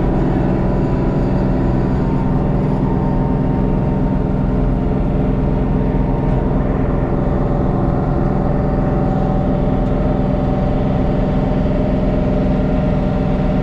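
LS MT232 compact tractor's three-cylinder diesel engine running steadily as the tractor drives over rough ground, its engine note holding even throughout.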